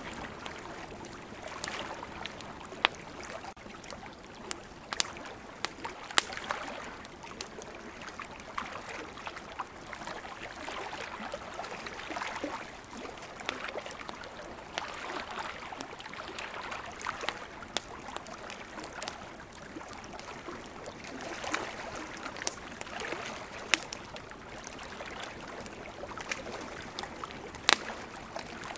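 Wood campfire crackling, with sharp pops at irregular moments, over a steady wash of ocean surf that swells and fades.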